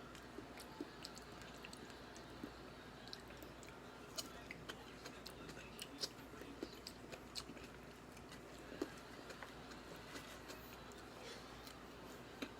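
A person chewing food close to the microphone, with many small wet mouth clicks and an occasional crunch scattered irregularly, a few each second.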